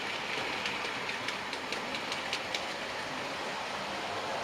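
OO-gauge model train running along the layout's track, a steady rolling sound with a run of sharp clicks at about four a second as the wheels pass over rail joints; the clicks stop a little past halfway.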